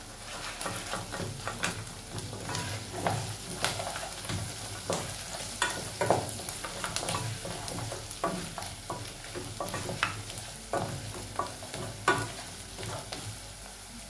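Wooden spoon stirring beef and onions frying in a pot, with a steady sizzle and irregular scrapes and knocks of the spoon against the pan.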